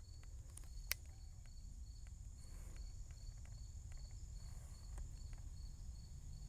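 Insects chirping: short high chirps in an even pulse of about three a second over a steady high buzz, with a low rumble underneath. One sharp click sounds about a second in.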